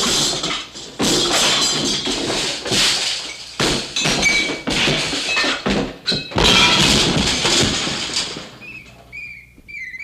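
A run of loud cartoon crashing and thudding sound effects over music, then a few short wavering whistle-like chirps near the end as the din dies away.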